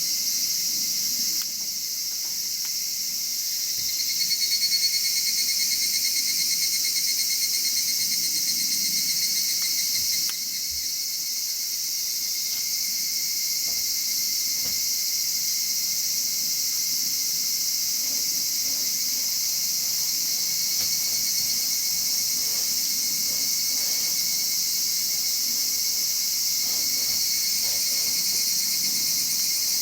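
Insects chirring steadily in a high-pitched chorus, with a pulsing trill joining about four seconds in.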